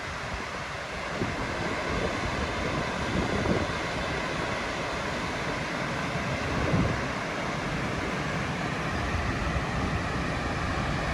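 Steady rushing noise of a waterfall, with wind buffeting the microphone in uneven low gusts.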